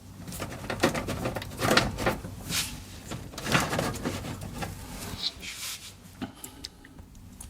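Irregular handling noises, a scatter of knocks, clicks and rustles, as a hard drive and its SATA cables are fiddled with and positioned in a desktop PC case.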